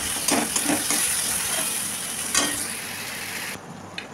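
Vegetables and soaked lentils sizzling in a metal wok while a spatula stirs them, scraping the pan a few times. The sizzle cuts off abruptly about three and a half seconds in.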